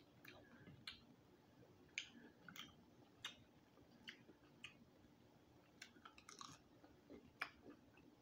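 A person chewing food close to the microphone: faint mouth sounds with short, irregular sharp clicks and smacks.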